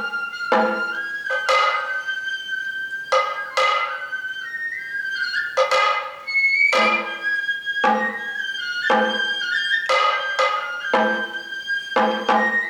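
Kagura hayashi music: a Japanese bamboo transverse flute plays a high, held melody that slides between notes over irregular, ringing taiko drum strokes.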